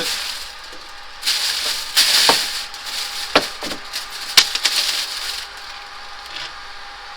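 Rustling and handling noise with several sharp clicks and knocks as loose items are packed away. It is busiest in the middle and dies down in the last couple of seconds.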